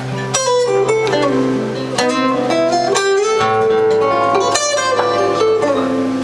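Acoustic guitar playing: chords struck a few times, with single picked notes ringing between them.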